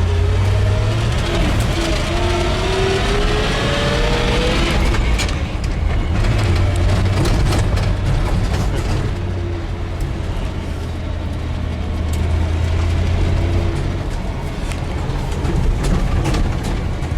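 1982 Chevy C30's 5.7-litre small-block V8 pulling the truck along, its note rising steadily for about five seconds as it accelerates, then breaking off and running on at a steadier, lower pitch. Light rattles and clicks come through now and then in the later part.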